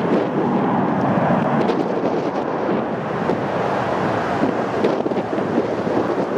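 Strong wind buffeting the microphone: a loud, steady rushing rumble with small irregular gusts.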